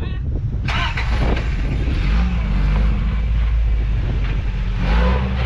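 1986 Toyota pickup's engine pulling under load as the truck crawls up a rock line, its pitch rising briefly twice as the throttle is given. A burst of noise comes in about a second in.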